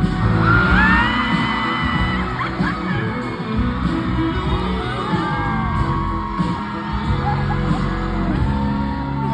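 Live pop song played loud in a large hall, with singing over the band and audience members yelling and whooping.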